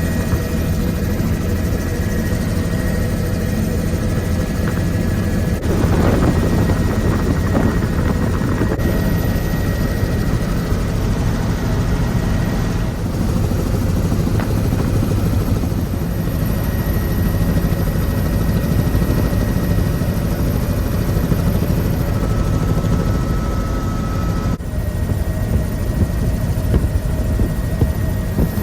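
Helicopter running steadily in flight, its rotor and engine a continuous low-pitched drone, with a few abrupt jumps in the sound where the footage is cut.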